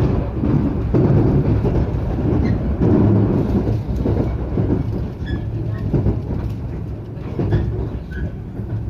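Local train's running rumble on the rails, heard inside the carriage as it slows into a station, easing slightly in the second half, with a few faint high squeaks.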